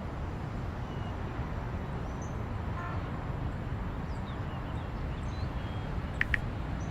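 Steady low rumble of outdoor ambience, like distant traffic, with faint high chirps, a brief pitched toot about three seconds in and two short clicks near the end.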